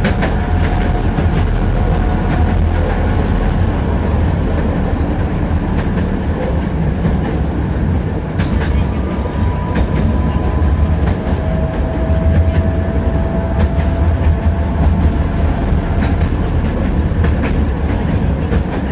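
Tram running along the track, heard from inside the car: a steady low rumble of wheels on rails with scattered clicks, and a faint whine that comes and goes near the middle.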